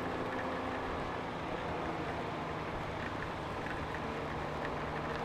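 Honda Gold Wing motorcycle riding on a wet road in the rain: a steady rush of wind and road noise with the engine's low, even hum underneath.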